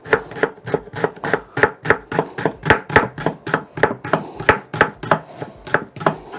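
Kitchen knife rapidly chopping onions on a cutting board: an even run of sharp knocks, about four a second.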